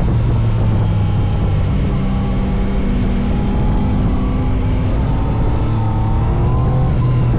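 Yamaha MT-09 SP's inline three-cylinder engine running at fairly steady revs, its note dipping slightly and then rising again, over a heavy rushing noise.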